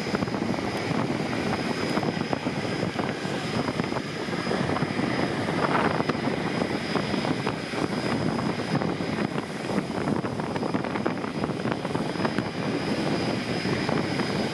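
Steady engine noise with a constant high whine running through it.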